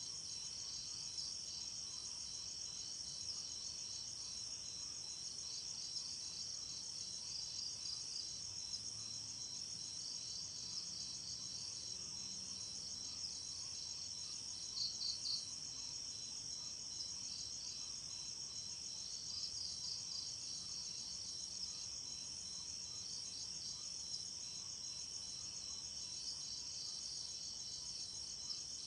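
Night insects, crickets, chirping in a continuous high-pitched chorus, with a brief burst of louder chirps about halfway through.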